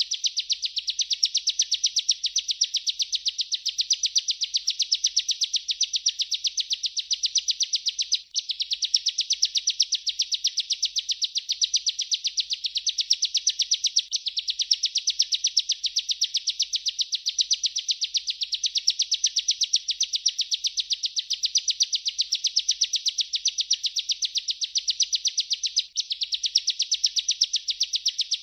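Bar-winged prinia (ciblek) in long continuous song: an unbroken stream of rapid, high chirping notes that breaks off only twice, briefly.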